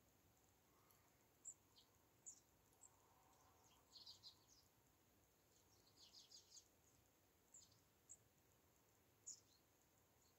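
Faint, high, scattered chirps and short twittering calls of small garden birds, with two brief runs of quick chirps about four and six seconds in.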